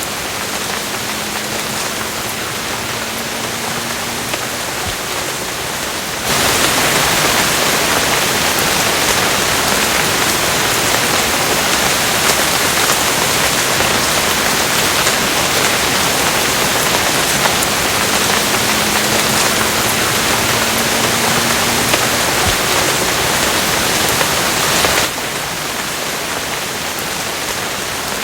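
Steady rain falling, a continuous even hiss. About six seconds in it turns suddenly louder and fuller, and it drops back just as abruptly a few seconds before the end.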